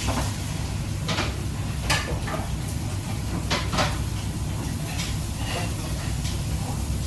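Kitchen clatter: a string of short knocks and clicks, like utensils, pans and cupboard doors being handled, over a steady low hum.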